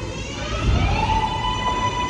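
New York City Subway L train (R143 or R160A-1 car) moving at the station, with a rumble under a high, multi-toned whine that rises in pitch about half a second in and then holds steady.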